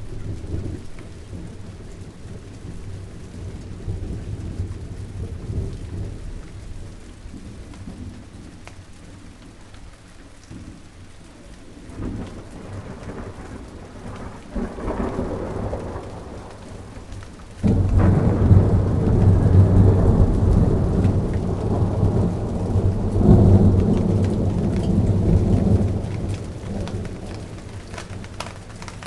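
Steady rain falling on garden plants, pattering throughout, with thunder rolling through it. A low rumble swells a little past halfway, then a loud peal starts suddenly about two-thirds of the way in, rolls on for several seconds and fades near the end.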